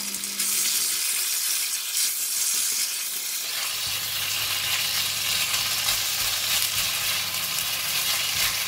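Sliced pork sizzling steadily in hot oil in a wok with ginger and garlic, just added and being stirred with a silicone spatula. A low hum joins about three and a half seconds in.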